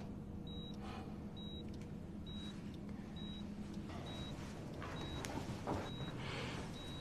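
A short, high electronic beep repeating steadily a little faster than once a second, over a low steady hum, with a few soft rustling swells in the second half.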